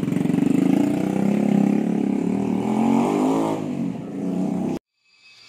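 Motorcycle engine running through its silencer, revving up about two and a half seconds in and easing back, then cutting off abruptly near the end. Music fades in just after the cut.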